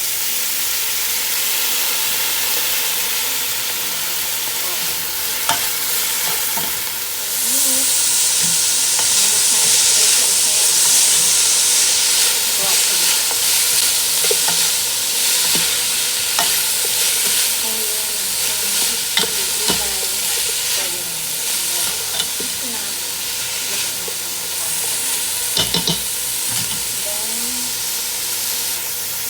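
Food sizzling as it stir-fries in hot oil. The sizzle gets louder about seven seconds in, and a cooking utensil scrapes and clicks against the pan now and then, several times in quick succession near the end.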